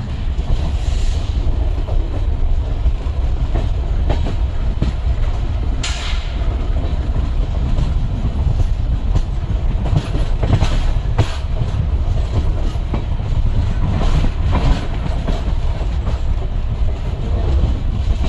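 Diesel-hauled passenger train running along the line, heard from aboard a coach: a steady low rumble with the wheels clicking over rail joints at irregular intervals.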